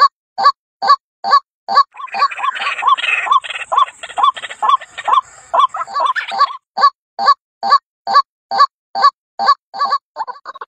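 White-breasted waterhen (ruak-ruak) giving its harsh, repeated "kruak" call, about two to three calls a second. From about two to six and a half seconds in, the calls thicken into a denser, noisier jumble of overlapping calls before the even rhythm returns.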